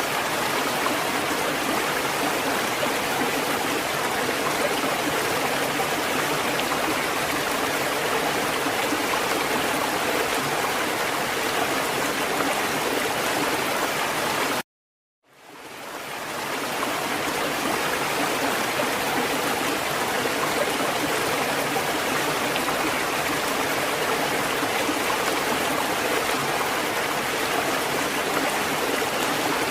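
Steady rushing water, an even hiss with no rise and fall of separate waves. About halfway through it cuts out to silence for half a second, then fades back in over a second or so.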